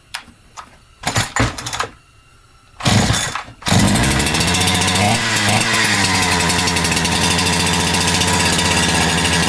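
Holzfforma G372XP two-stroke chainsaw (a Husqvarna 372XP clone) pull-started: three yanks on the starter cord, catching on the third pull at about four seconds in and then running steadily at high speed. It is running on fuel dribbled into the intake, and the owner finds it running lean, starved of fuel.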